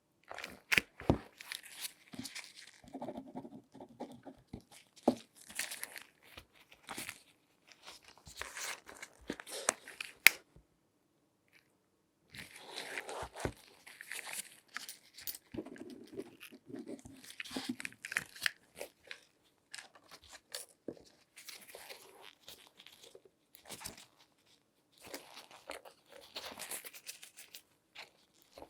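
Latex-gloved hands handling and rubbing things close to the microphone: irregular bursts of crinkling, crunching friction with sharp clicks and taps, the loudest click about ten seconds in, followed by a pause of about two seconds before the rustling resumes.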